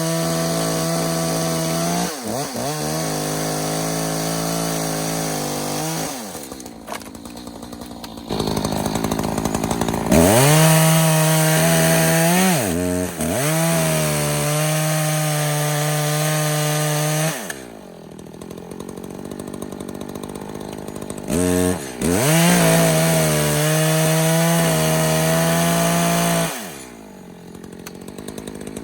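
Echo CS-590 Timberwolf two-stroke chainsaw running at high revs through wood in three long stretches, dropping back to idle between them.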